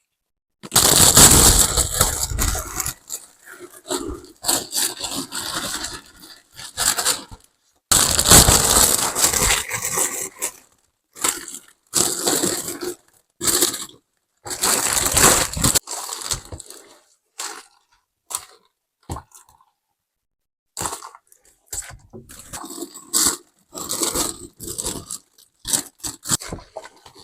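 Close-up handling sounds: a run of crunching and scraping bursts, some long and some short, stopping and starting with short silent gaps between them.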